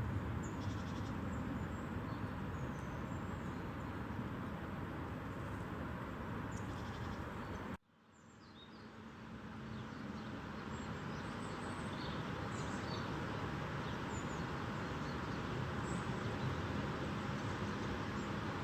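Steady rain hiss with faint, short bird chirps over it. The sound cuts out abruptly about eight seconds in and fades back up over a couple of seconds.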